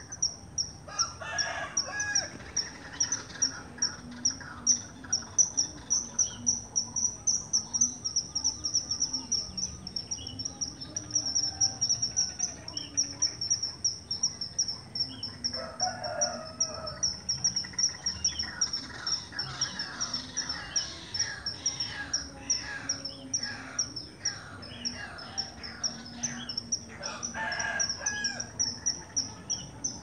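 Birds calling, which the title names as the sri mbombok bird: a high pulsing call that repeats steadily throughout, with many short chirps over it. A rooster crows three times, near the start, about halfway and near the end.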